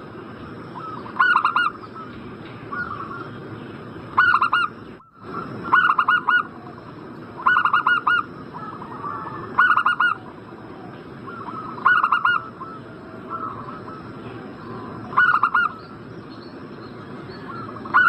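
Zebra dove (perkutut) cooing: a short phrase of a few quick notes repeated about every two to three seconds, with fainter calls between the loud phrases. A faint steady high whine lies underneath, and the sound drops out briefly about five seconds in.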